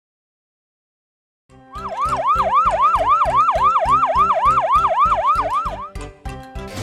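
Near silence for about a second and a half, then a fast yelping siren effect that swoops down and up about four times a second over music with a steady beat; the siren stops about six seconds in.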